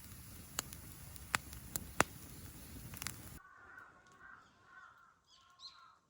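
Wood bonfire crackling, with a steady hiss and several sharp pops. A little past halfway the sound cuts off abruptly, and a bird calls several times in short harsh calls.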